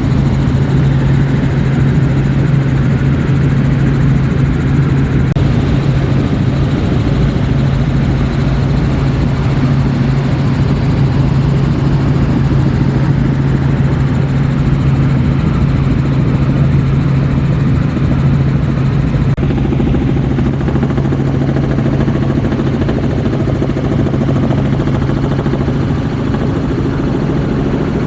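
Helicopter in flight, heard from inside the open cabin: a steady, loud hum of rotors and engine over rushing air, the doors being off.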